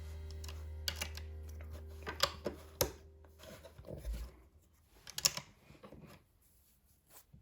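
Lego plastic pieces and packaging being handled: scattered small clicks and rustles, under a low held tone that fades out about three seconds in.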